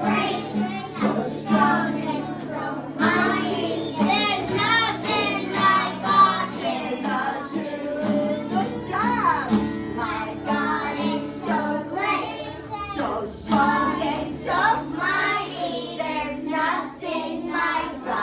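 A group of young children singing a praise song together over musical accompaniment.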